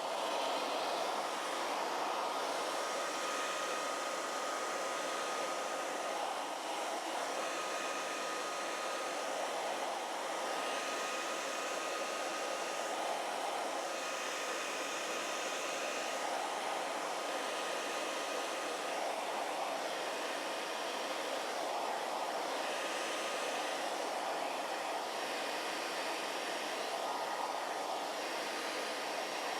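Handheld hair dryer running steadily, a rushing blow of air with a faint thin whine from its motor. The sound swells and eases slightly every couple of seconds.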